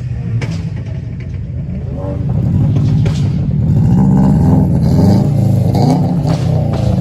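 Car engine revving, its pitch rising and falling several times and growing louder about two seconds in.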